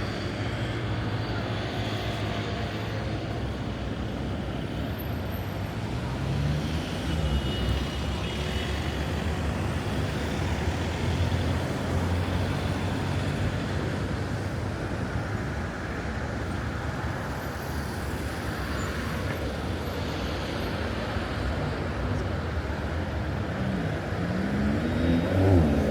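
Street traffic: a steady hum of car engines and tyres passing, with a vehicle's engine rising in pitch as it accelerates about seven seconds in and again near the end, which is the loudest moment.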